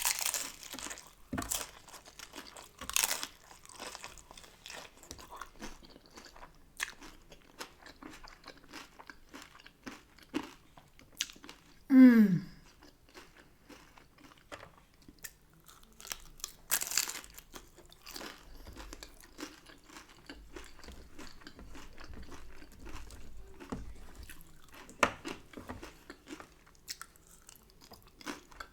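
Chewing and crunching on a hard-shell beef taco, the crisp corn shell cracking in many short bites. About twelve seconds in, a short voiced sound falls in pitch and is the loudest moment.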